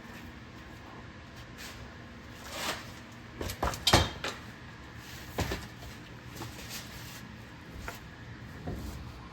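Metal tools clanking and knocking on the truck's rear suspension parts: a cluster of sharp clanks about three to four seconds in, the loudest near four seconds, and another a second or so later.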